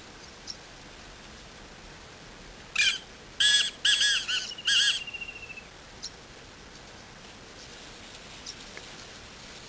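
Black francolin calling: one loud, harsh phrase of about five grating notes, starting about three seconds in and trailing off after about three seconds in a quick fading rattle.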